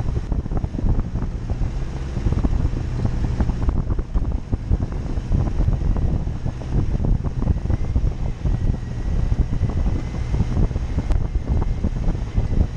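Jeep Cherokee engine running under heavy wind buffeting on the microphone, with frequent short knocks and rattles.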